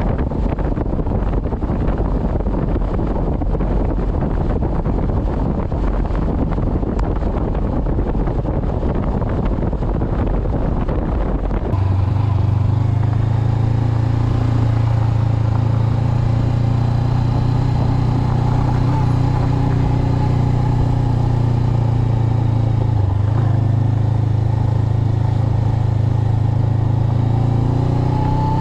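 Wind buffeting the microphone while riding, then about twelve seconds in a sudden change to a steady drone from a Honda CB500X's parallel-twin engine running at an even speed.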